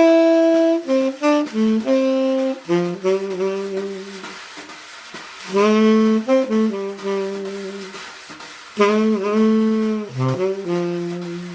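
Saxophone playing a swinging melody line as a song's intro, one note at a time with several long held notes.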